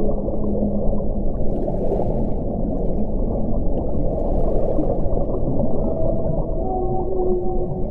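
Steady wind, a dense low rush with faint whistling tones that come and go, and two brief hissing gusts about two and four and a half seconds in.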